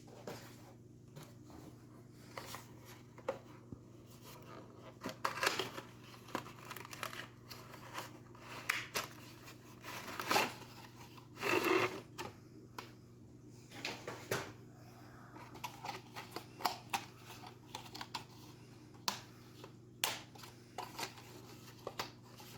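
Crinkling and rustling of packaging with scattered small clicks and taps as plastic HO scale model train cars are handled, over a steady low hum.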